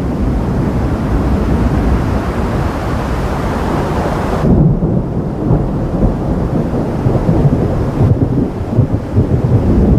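Thunder rumbling on and on during a thunderstorm, over a steady hiss of rain. About halfway through the higher hiss drops away suddenly, leaving a low, uneven rumble.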